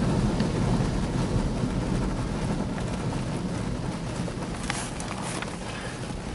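Rotating brushes of a PDQ ProTouch Tandem car wash scrubbing the car, heard from inside the car as a steady low swishing noise that slowly gets quieter.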